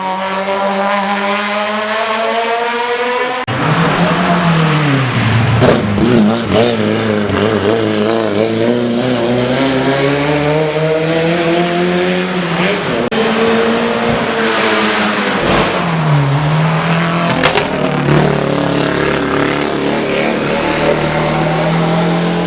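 Hill-climb race car engine at full throttle, its pitch climbing as it accelerates, then an abrupt change about three and a half seconds in to an engine revving up and down through gear changes and lifts for corners.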